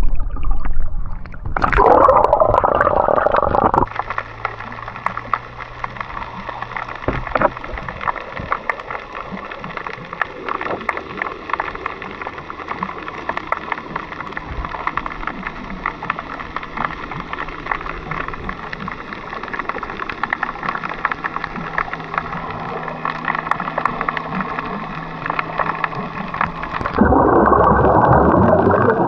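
Underwater sound picked up by a camera held below the surface while snorkelling: a steady muffled hiss full of constant fine crackling. Louder surges of bubbling and splashing water come about two seconds in and again near the end.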